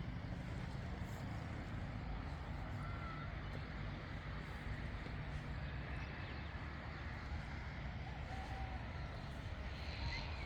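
Wind buffeting the microphone, a steady low rumble, with a few faint short whistles in the background.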